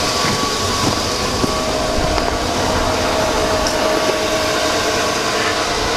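2002 Chevy Avalanche's 5.3-litre V8 idling steadily while it warms up after a cold start.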